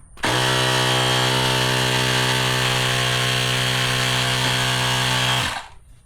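Small electric air compressor running steadily for about five seconds, a constant motor hum with a hiss of air, inflating the motorcycle's rear inner tube. It starts just after the beginning and cuts off shortly before the end.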